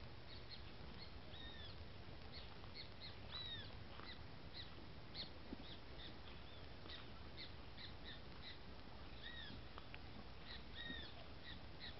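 Birds chirping and calling, with short chirps and repeated arched call notes scattered throughout, over a faint low rumble.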